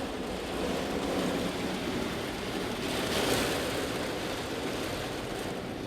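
Heavy rain pouring down on a car, heard from inside the car as a steady rushing hiss that swells slightly midway.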